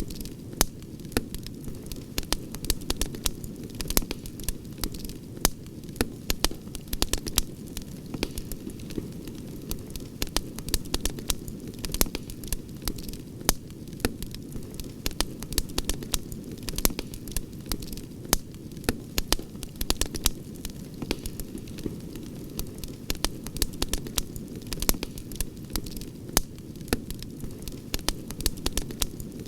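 Campfire burning, with frequent irregular sharp crackles and pops over the steady low rush of the flames.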